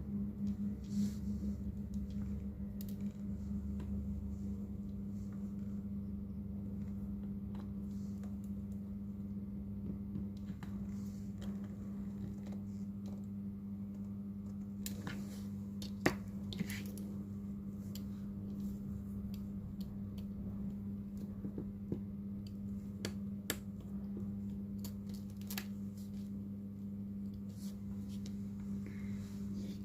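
Scattered small clicks and taps of tools handling a smartphone during a display repair, the sharpest about halfway through, over a steady low electrical hum.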